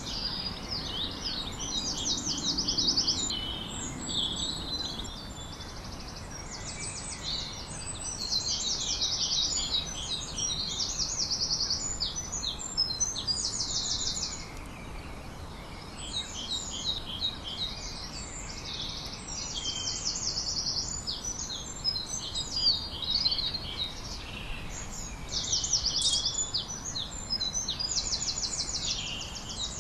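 Several songbirds singing together, overlapping runs of rapid, high trills and chirps, over a faint steady background noise.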